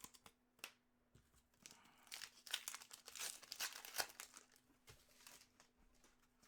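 Faint crinkling and tearing of a foil trading-card pack wrapper, a run of small crackles that is busiest in the middle, over a faint steady hum.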